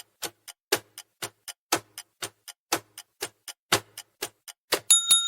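Countdown timer sound effect: a clock ticking about four times a second with a louder tick each second, then a bell dinging twice near the end to signal that time is up.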